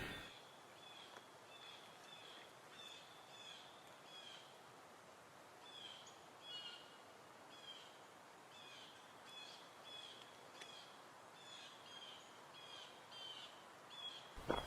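Faint bird calls: a steady series of short, high chirps, about two a second, some dipping slightly in pitch.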